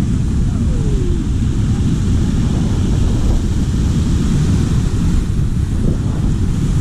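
Rushing river water around a raft, with wind buffeting the microphone into a steady, loud rumble.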